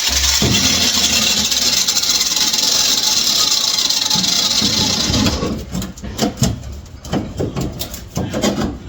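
A power tool runs steadily on the car's sheet-metal floor pan while a bad repair is being removed, then cuts off about five seconds in. A series of sharp metal knocks and clinks follows.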